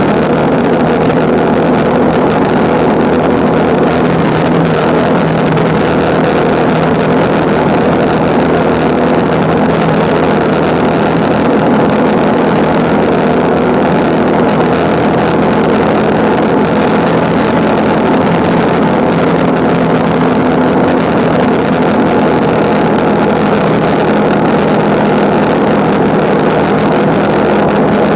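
Motorcycle engine running at a steady cruising speed, with wind rushing past the microphone.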